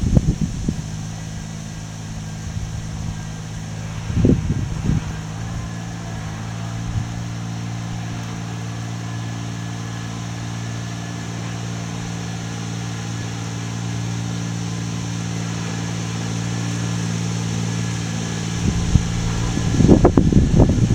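A steady low mechanical hum made of several even tones, with short knocks about four seconds in and a cluster of knocks near the end.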